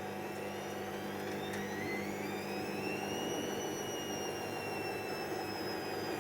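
Hoover DYN7144XD1 washing machine running, its drum motor whirring with a whine that rises about a second and a half in, then slowly eases off as the drum speed changes.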